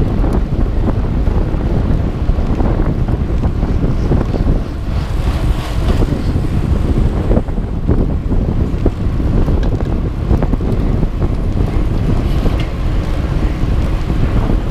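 Loud wind buffeting the microphone: a constant, gusty low rumble with no clear tones.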